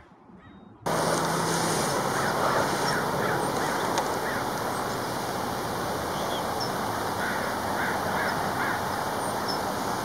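A steady rushing noise starts abruptly about a second in, with two short runs of quick bird calls over it: one around two seconds in and another near the end.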